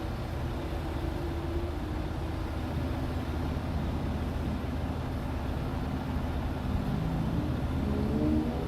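Steady low rumble of a motor vehicle's engine, with faint pitched sounds rising in over it near the end.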